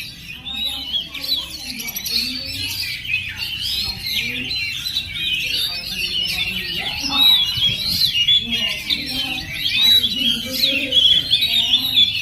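Oriental magpie-robin singing, a continuous, rapid stream of varied whistles, chirps and trills.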